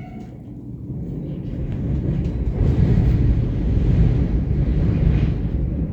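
Low rumble and rush of a moving train, mixed with wind on the microphone, building up to a peak in the middle and easing off near the end.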